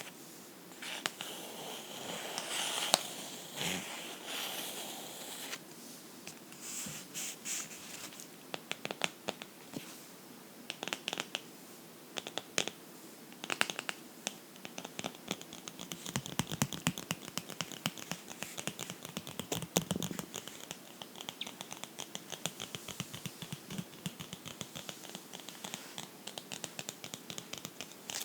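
Fingernails scratching on a book in quick, dense strokes, after a few seconds of softer rubbing.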